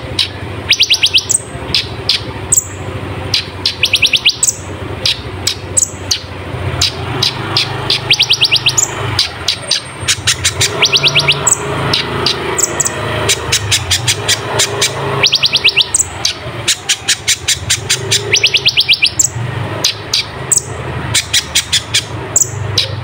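Van Hasselt's sunbird (kolibri ninja) singing a loud, busy song of rapid high trills and sharp down-slurred chips, phrase after phrase with hardly a pause, over a faint steady low hum.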